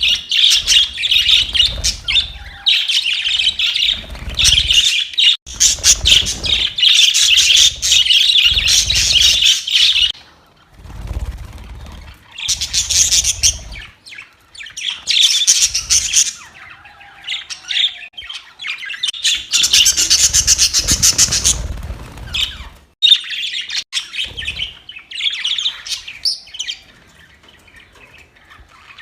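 Budgerigars chattering and chirping in fast, high warbling bouts of several seconds, broken by short pauses.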